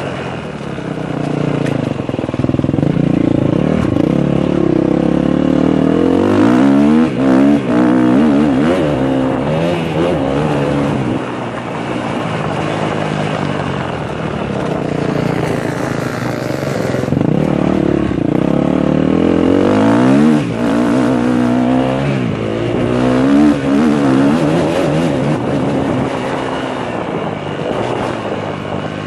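KTM 250 SX-F four-stroke single-cylinder motocross engine revving hard and easing off over and over as the bike is ridden round the track. Its pitch climbs in several long rising runs, each followed by drops as the throttle closes or the rider shifts.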